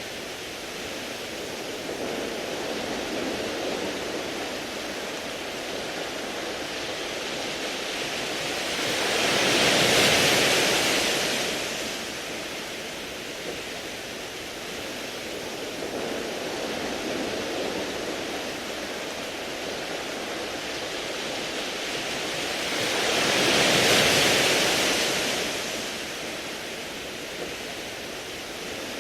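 Sea waves washing over a beach of smooth round pebbles: a steady wash with two larger waves that swell up and fall away over a few seconds, about a third of the way in and again some fourteen seconds later.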